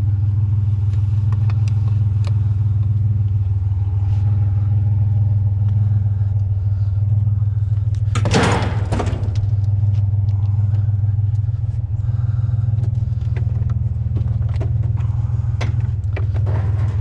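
A truck engine idles with a steady low drone. Scattered knocks sound over it, and a loud clatter lasting about a second comes near the middle.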